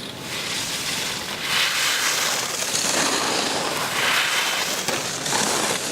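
Ski edges scraping on hard-packed snow as a racer carves turns, a hiss that swells and fades several times.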